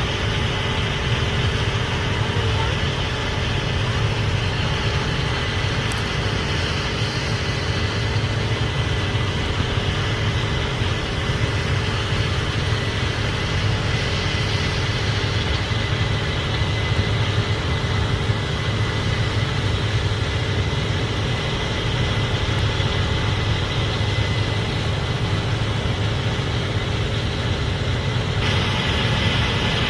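Case IH Axial-Flow 8250 combine running steadily: a low machine drone with a thin, constant whine above it. It turns a little brighter near the end.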